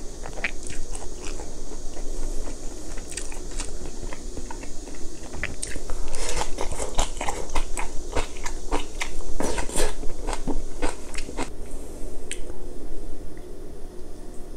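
Close-miked chewing of crunchy young radish (yeolmu) kimchi: a run of wet crunches that grows dense in the middle and thins out near the end.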